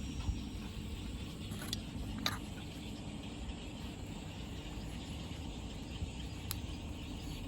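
Steady outdoor background noise with a few faint sharp clicks, two a little apart about two seconds in and one more near the end.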